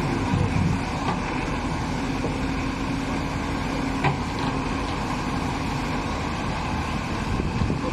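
A heavy diesel engine running steadily, with a single sharp knock about four seconds in.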